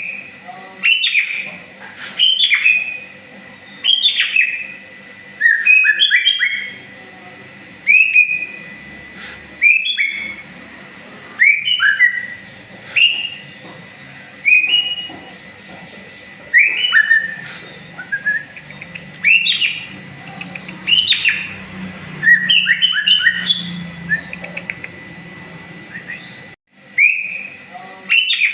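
White-rumped shama (murai batu) singing: short, loud whistled phrases, one every second or two, with sliding notes and some quick chattering runs.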